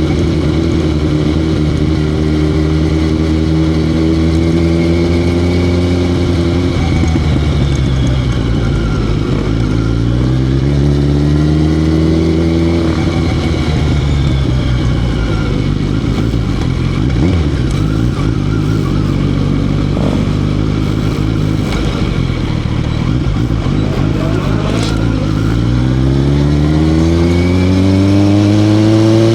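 Motorcycle engine running at a steady speed, then revving up as it accelerates about ten seconds in and again near the end, its pitch climbing each time.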